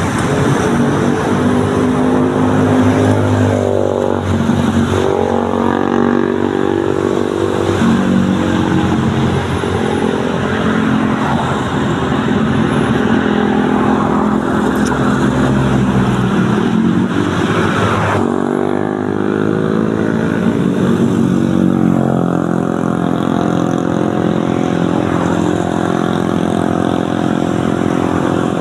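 Road traffic on a wet road: motorcycle and car engines passing one after another, their pitch rising and falling as each goes by, over a steady hiss.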